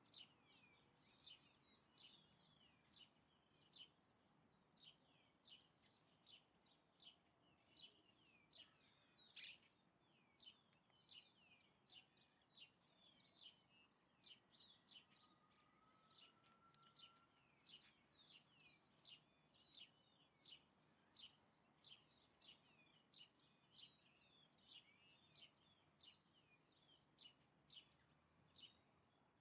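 Small birds chirping: a steady string of short, high, faint chirps, many of them falling in pitch, about two a second. A brief whistled note rises slightly about halfway through.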